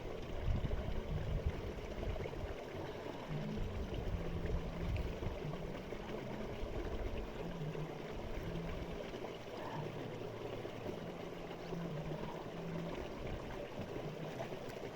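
Running water, a stream or river, with a low rumble underneath.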